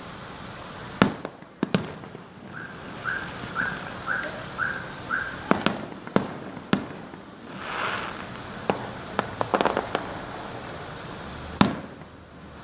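Fireworks going off: sharp bangs about a second in, several more around the middle and a loud one near the end, with crackling bursts in between. A run of six short, evenly spaced rising chirps sounds in the first half.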